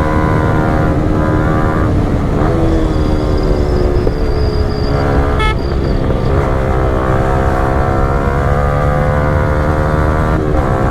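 Yamaha R15 V4's 155 cc single-cylinder engine running through a Yoshimura Alpha full-system exhaust at steady riding revs. Its note dips and bends briefly about two seconds in and again near the end.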